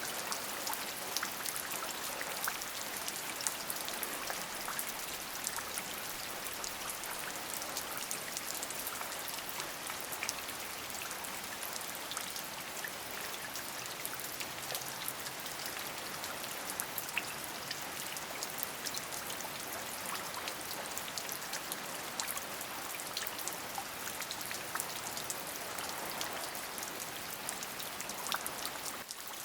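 Steady rain: an even hiss with many separate drops heard as fine ticks.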